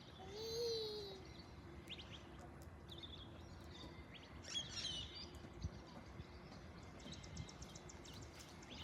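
Faint outdoor ambience with birds chirping now and then, and a quick high trill about seven seconds in.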